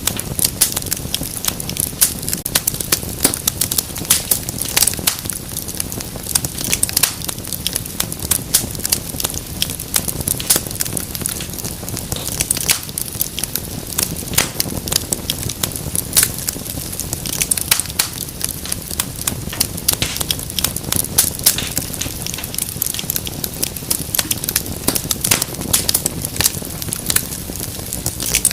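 Wood fire in a fireplace crackling continuously, with many quick irregular pops and snaps over a low steady rumble.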